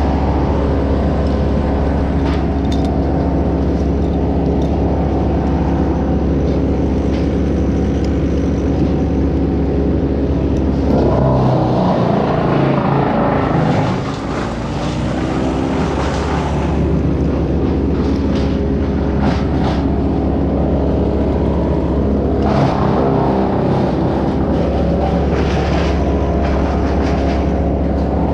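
A large engine running steadily, its sound shifting and bending in pitch for a few seconds about eleven seconds in and again briefly past two-thirds of the way.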